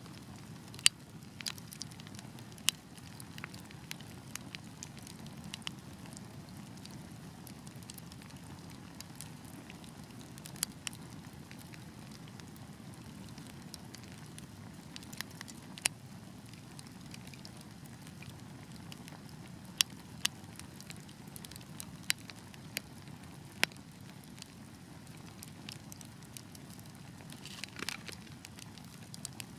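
Wood fire burning in a fireplace: a steady low rumble of flames with sharp, irregular crackles and pops, and a short flurry of hissing crackles near the end.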